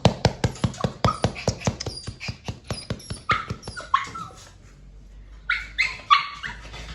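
Puppy giving short, high yelps and whimpers in two groups, about three seconds in and again near the end. A fast run of sharp clicks, about four a second, fills the first four seconds.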